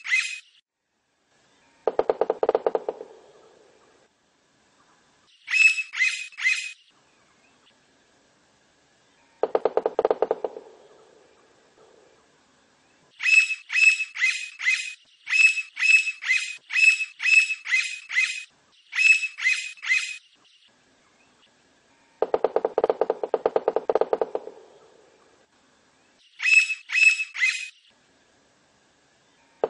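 Blond-crested woodpecker calling: groups of sharp, high, ringing notes, with one long run of them in the middle. Three lower, rattling bursts of a second or two each come between the groups.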